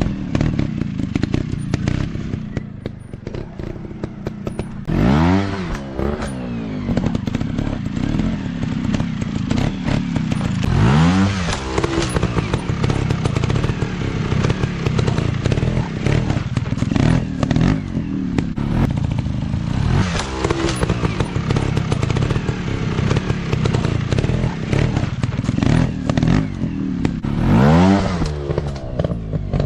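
Motocross dirt bike engine running hard, rising and falling in sharp rev sweeps every several seconds.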